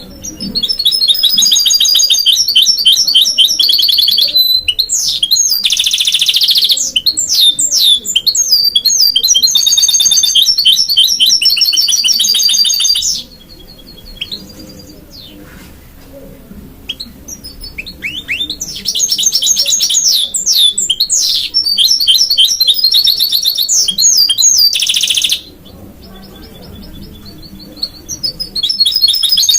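Goldfinch × canary mule singing: long, rapid twittering song full of trills and quick rising and falling notes. The first bout lasts about twelve seconds; after a pause with a few soft calls comes a second bout of about seven seconds, and the song starts again near the end.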